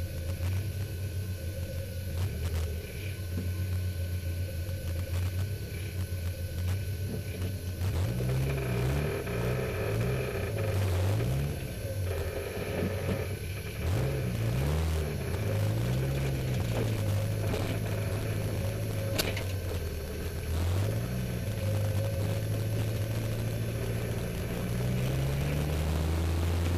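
Peugeot 205's MI16 16-valve four-cylinder engine idling steadily, then revved again and again from about eight seconds in, its pitch rising and falling with each blip.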